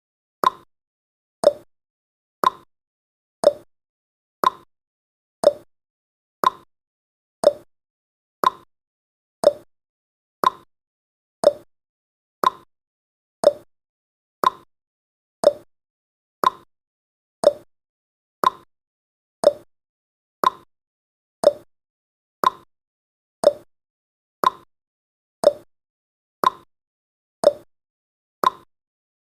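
Countdown timer's tick sound effect: one short, sharp click every second, each dying away quickly.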